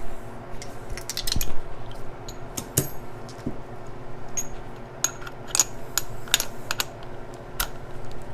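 Irregular metallic clicks and clinks of a hand wrench working the oil line fitting on a Toyota 3SGTE turbocharger, loosened by hand.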